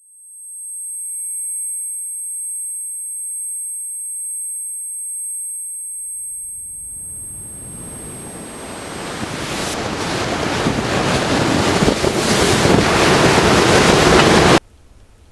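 A high-pitched, steady ear-ringing tone, the sound of tinnitus, fades in at the start. About six seconds in, a swelling rush of noise rises over it and grows louder until it cuts off suddenly near the end.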